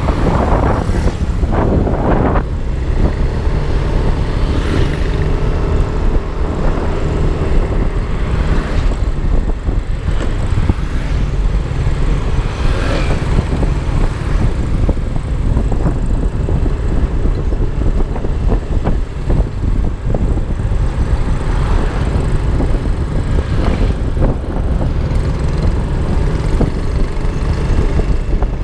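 Riding a Yamaha Aerox 155 scooter: wind rumbling over the camera's microphone, with the scooter's engine and passing traffic underneath and a few brief louder swells.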